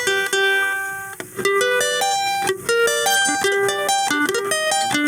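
Plucked string instrument played through a speaker box by cable: a held note fades for about a second, then a quick melody of single notes follows.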